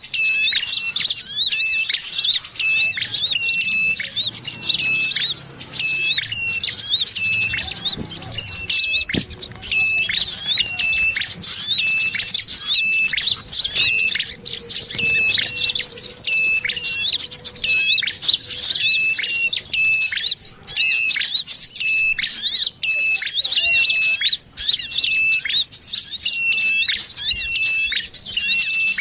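Bird-lure recording playing a loop of dense, high, scolding bird chatter (sogon chatter) mixed with tailorbird and sunbird calls. A short steady note repeats a little under twice a second over the chatter, and nothing changes or stops.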